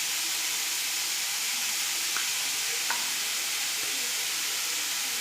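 Chicken, onion and spices sizzling steadily in a hot kadai as they are stirred, with a couple of light utensil clicks against the pan about two and three seconds in.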